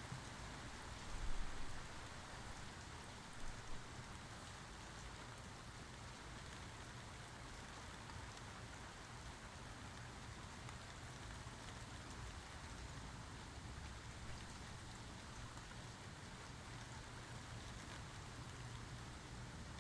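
Steady falling rain, a constant even hiss, with two brief low thumps about a second in and again at three and a half seconds.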